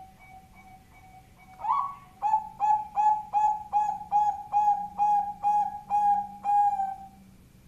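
Zebra dove (Bangkok-type perkutut) cooing. A soft quick run of short notes and a rising note lead into a loud, regular run of about a dozen staccato coos, two or three a second, which stops near the end.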